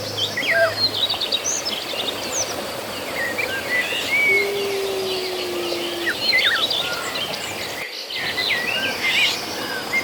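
Outdoor ambience of many small birds chirping and calling over a steady hiss, with a low steady hum for about two seconds midway and a brief break in the sound near the end.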